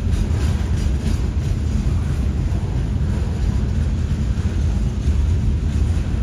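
Freight cars of a CSX freight train rolling past: a steady, heavy low rumble of steel wheels on rail.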